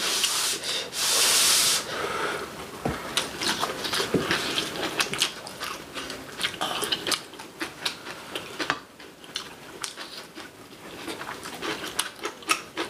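Close-up eating sounds: mouths chewing braised kimchi cabbage and rice, with many small wet crunches and clicks, and a brief airy slurp about a second in.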